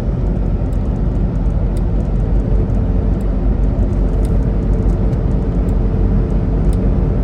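Semi-truck engine and road noise while driving at highway speed, a steady drone.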